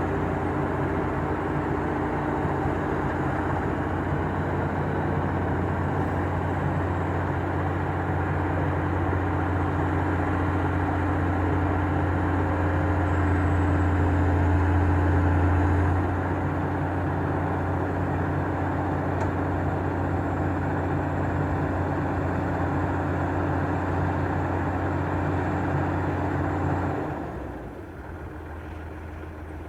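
Heavy diesel engine of an excavator running steadily, slightly louder around the middle, then dropping back to a quieter idle about three seconds before the end.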